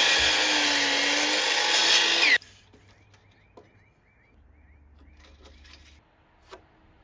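Power saw cutting through lumber for about two and a half seconds, its pitch sagging slightly under load before it cuts off abruptly.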